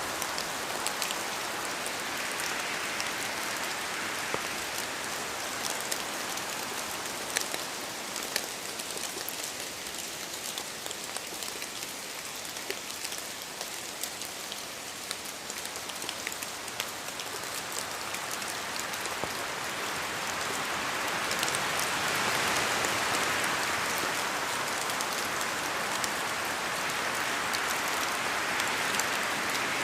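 Steady rain falling and pattering on surfaces, with scattered sharp drop ticks, swelling a little louder about two-thirds of the way in.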